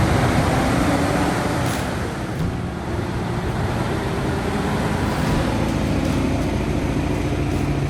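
Heavy truck diesel engines running, with a low engine note that rises and falls slightly over a steady traffic-like rumble.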